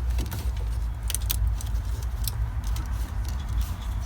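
Light clicks and small rattles as the Honda's fuel pump main relay, opened up with its cover off, is handled and pushed back into its connector, over a steady low rumble.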